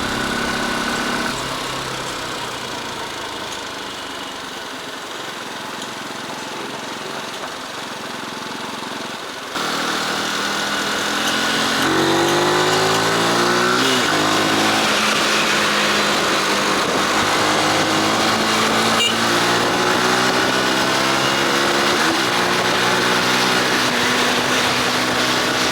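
Motorcycle engine running while riding, with a wind-like rush. About a third of the way in it jumps suddenly louder, then the engine pitch climbs and drops several times as the bike accelerates and shifts gears.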